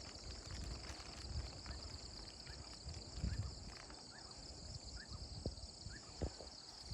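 Steady high-pitched insect drone, with uneven low rumbling, a few sharp knocks and several short rising chirps over it.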